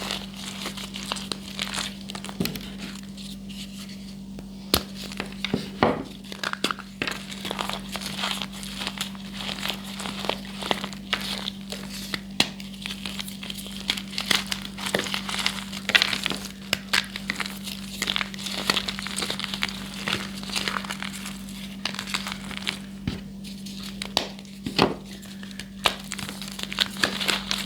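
Soft reformed gym chalk being crushed: dense, irregular crunching and crumbling with frequent sharp cracks, over a steady low hum.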